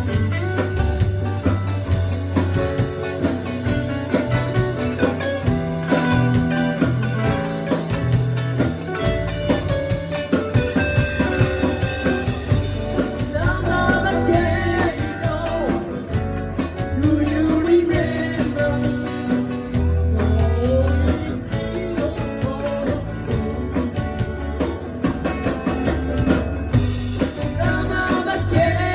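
Live band playing a rock song with guitar, bass and drum kit, and a bending melody line over it in the second half.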